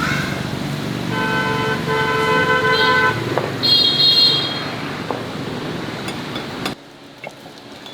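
Vehicle horn honking in two blasts, the second one longer, over steady road traffic noise. A brief higher-pitched tone follows, and the background drops away suddenly near the end.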